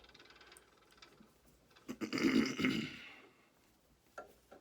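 Wooden test coupon crackling and creaking as a vise crushes it, the wood fibres folding and starting to fail while the epoxy bond holds. Faint crackling at first, a louder stretch about two seconds in lasting roughly a second, and a short click near the end.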